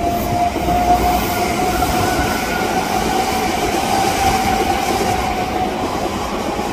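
Odakyu Line electric train moving along the station platform: a steady rumble of wheels on the rails with a high, even whine.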